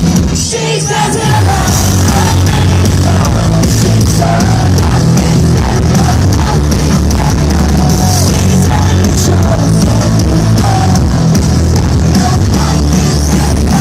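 Loud rock music with singing, cutting in abruptly at the start.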